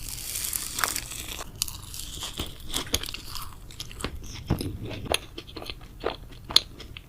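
Close-miked chewing and biting of crisp sweets, with many sharp crunches in an uneven stream. A brief soft hiss comes in the first second or so.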